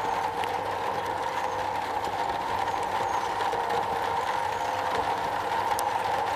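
Steady rain falling on a metal roof, an even hiss with scattered sharp ticks of single drops.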